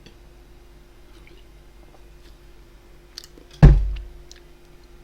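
Faint chewing and small clicks of eating, with one loud, deep thump about three and a half seconds in that dies away quickly.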